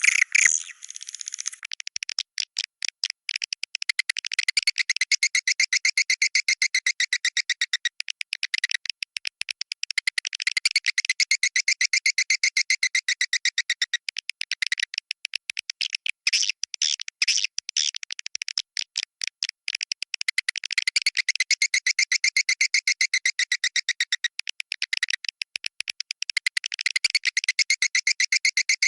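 Recorded swiftlet calls: dense, rapid trains of high chirps repeated in phrases that stop and start abruptly. This is the 'Goa China' style of swiftlet lure sound.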